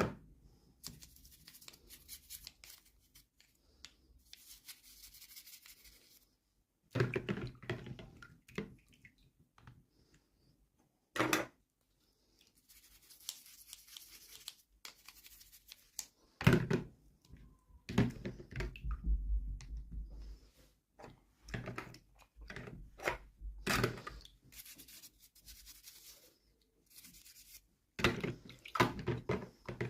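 Hands opening and handling toy packaging: irregular crackling and tearing of plastic and paper, with scattered clicks and a few sharp knocks of small plastic pieces being set down.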